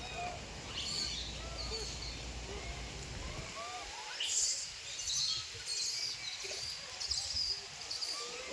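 Baby monkey giving a run of short, high squeaky calls, each a quick rise and fall in pitch, repeated many times. A low rumble underneath stops about a third of the way in.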